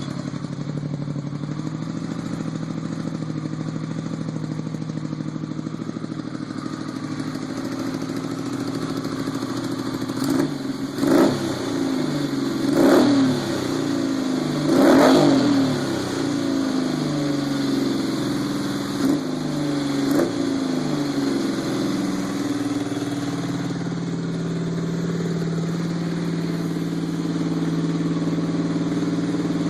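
Yamaha XS750 three-cylinder motorcycle engine, running through a Dan Moto aftermarket exhaust, idling steadily on its first start. Between about ten and twenty seconds in the throttle is blipped several times in quick revs, then it settles back to a steady idle.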